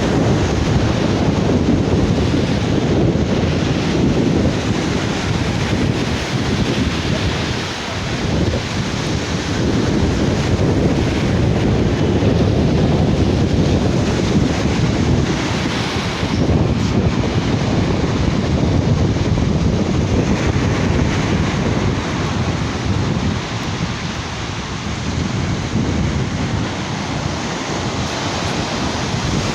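Sea waves washing onto a beach, with wind buffeting the microphone and making a heavy, continuous rumble that swells and eases.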